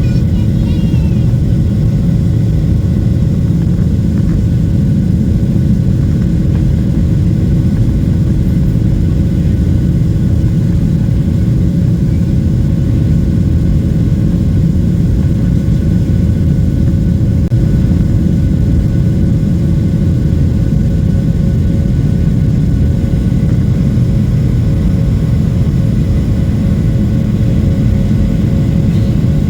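Boeing 737-800's CFM56 jet engines and rushing air heard from inside the passenger cabin: a loud, steady low rumble with a faint hum on top, typical of the aircraft at departure thrust.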